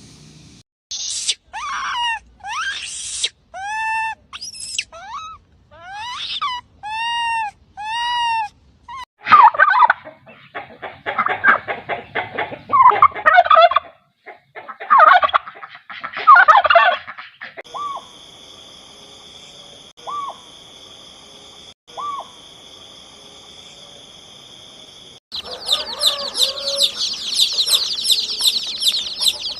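Farm poultry calling in a series of cut-together clips: first a run of short arching calls, then loud rattling bursts, then a few brief calls over a steady tone, and from about 25 seconds in a dense chorus of rapid high-pitched calls.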